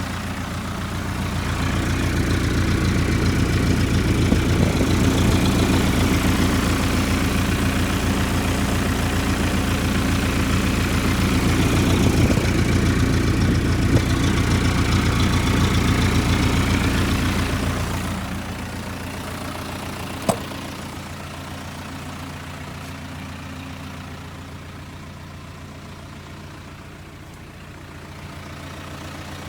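Isuzu Elf truck's 4BC2 four-cylinder diesel engine running steadily. It is louder for the first two-thirds, then drops to a quieter idle, with a single sharp click shortly after the drop.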